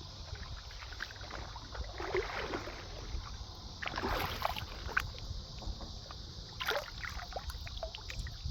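Feet sloshing and splashing through shallow creek water, in irregular steps with a few louder splashes and small knocks.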